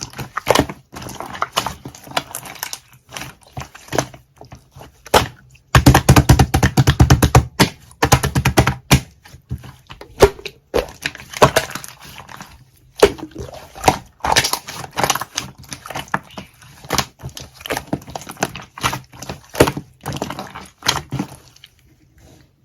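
Mixing by hand with yellow colouring being worked in: fast, irregular sticky clicks and crackles, loudest and densest a quarter of the way in, dying away near the end.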